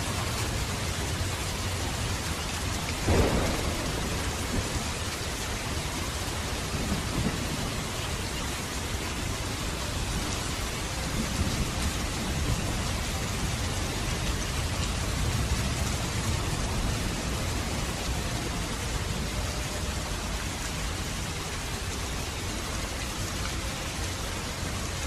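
Steady rain with thunder: a sharp thunderclap about three seconds in, then low rumbles under the rain.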